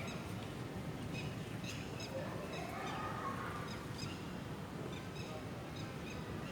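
Birds chirping in short, quickly repeated high calls, with a longer call in the middle, over a steady background noise of rain.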